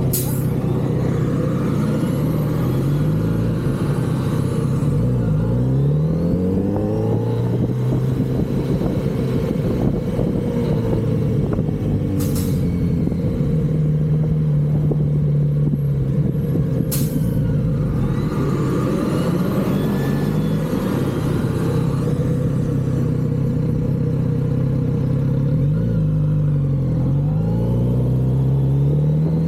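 Kawasaki Z900RS's inline-four engine running through its stock exhaust while riding, its pitch rising and falling several times as it revs up and eases off. There are three sharp clicks, one at the start and two near the middle.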